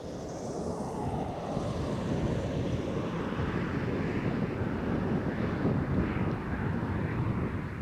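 Wind buffeting the microphone: a steady, heavy rumbling rush.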